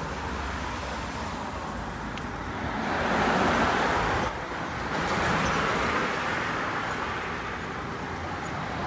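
Road traffic noise, with a car passing by, its sound swelling and fading about three to four seconds in.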